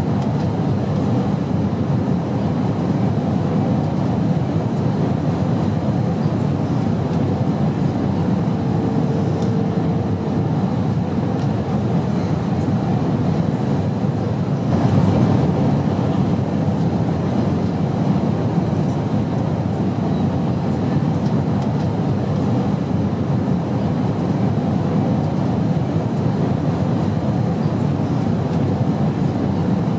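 Steady airplane noise, a low, even rumbling drone with no breaks. A faint hum rises briefly about nine seconds in, and the noise swells slightly around halfway.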